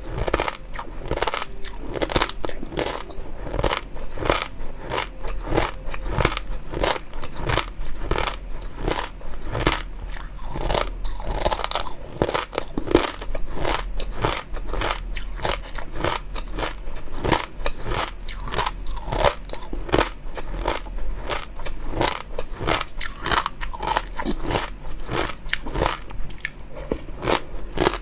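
Close-miked eating: continuous chewing and biting, with sharp crunching clicks coming several times a second.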